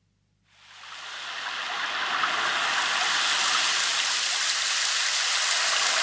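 Steady hiss of water noise fading in from silence over the first two seconds, then holding even, with faint scattered drip-like ticks.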